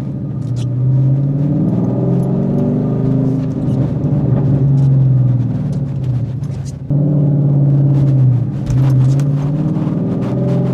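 Ford Coyote 5.0 V8 in a 2014 Mustang GT running through its exhaust, its pitch rising and falling gently with light revs. It gets abruptly louder about seven seconds in.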